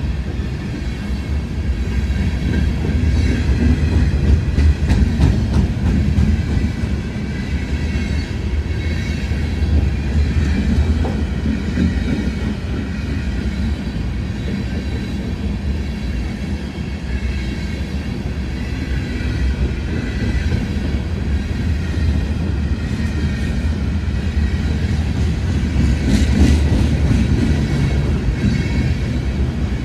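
Metra commuter train running on the rails through the station: a steady low rumble with wheel clatter and faint high wheel squeal over the track.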